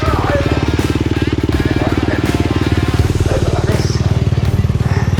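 Stunt ATV quad bike engine idling steadily, a fast even putter with no revving.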